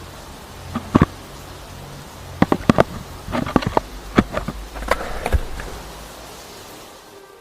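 Royal Enfield Thunderbird 500 single-cylinder engine sputtering, with a low hum under irregular sharp pops and misfires, as a bike that won't start properly stumbles and dies away near the end.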